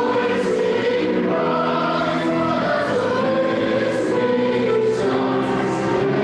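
A choir singing church music, several voices holding long notes together and moving from chord to chord.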